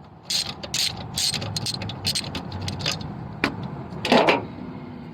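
Hand ratchet wrench clicking in short, irregular strokes as fasteners are worked loose or tightened on a car engine, with a denser run of clicks about four seconds in.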